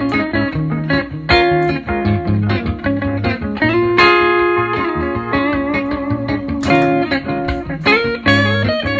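Telecaster-style electric guitar playing a blues-flavoured run of picked notes, with a held note about four seconds in, over a low bass line.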